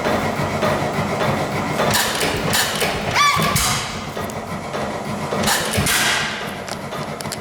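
Dempster 8 HP hit-and-miss gas engine running after a fresh start, a steady low rumble broken by sharp thumps of its firing strokes. A short high squeal comes about three seconds in.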